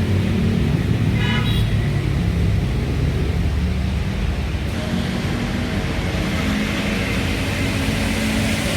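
A motor vehicle engine running steadily, with a passing-traffic hiss building from about five seconds in.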